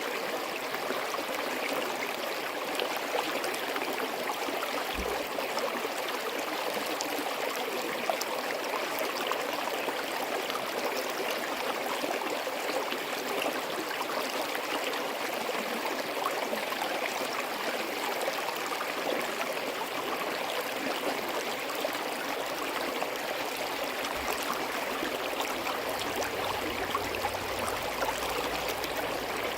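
Forest stream running and babbling over rocks: a steady rush of flowing water.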